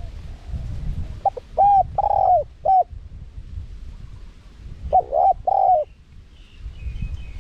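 Spotted dove cooing: a phrase of four short, arched coos about a second in, then a two-note phrase around five seconds in.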